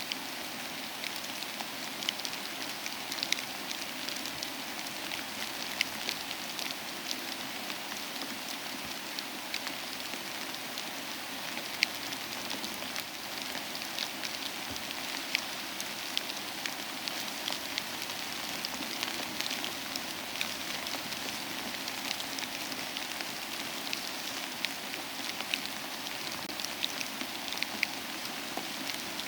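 Soft rain falling steadily along with a wood fire crackling in a fireplace: an even hiss with scattered short, sharp pops throughout.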